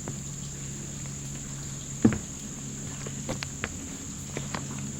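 A steady high-pitched drone of summer insects, with one sharp knock about two seconds in and a scatter of small clicks and taps after it: a hiker's footsteps as he crosses a log.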